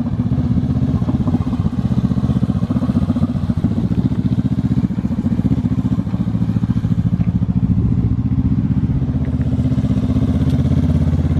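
2020 Honda CBR500R's parallel-twin engine running steadily through a muffler-deleted exhaust, a dense even low pulse with no muffler to quiet it.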